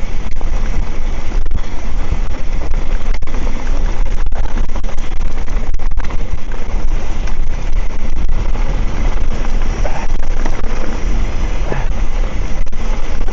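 Wind buffeting the microphone and tyre and frame rattle from a mountain bike descending a rocky trail fast, a loud, continuous rushing rumble full of small knocks.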